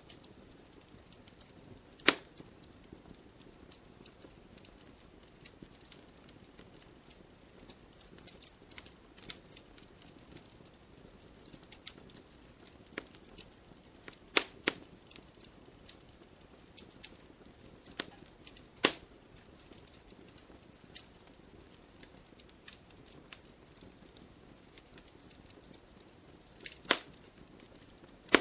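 Campfire crackling: scattered small pops and snaps over a low hiss, with a few louder pops about 2, 14, 19 and 27 seconds in.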